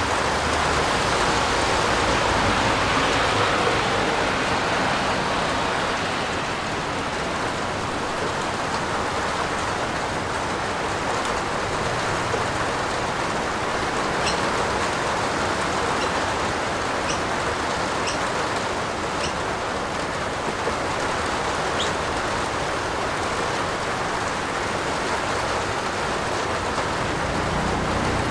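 Steady rain falling, with a few faint ticks of single drops in the middle.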